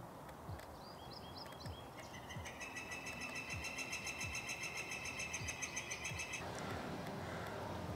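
A small songbird calling: a few short rising chirps, then a rapid, even trill of about seven notes a second that lasts about four seconds and stops abruptly.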